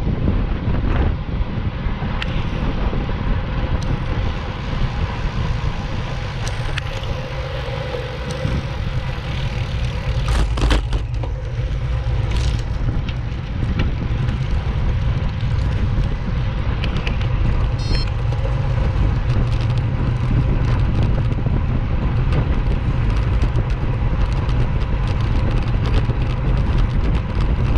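Wind rushing over the microphone of a camera carried on a moving ride, a steady low rumble mixed with road noise. There are a few sharp clicks or cracks about ten to thirteen seconds in.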